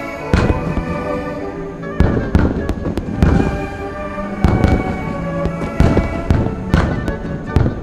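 Fireworks shells bursting in a string of loud bangs, about one or two a second, over orchestral background music.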